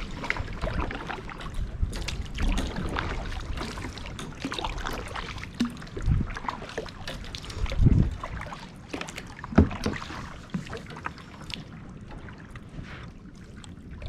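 Sounds of a kayak on the water: water washing against the hull, with irregular knocks and a few louder low thumps.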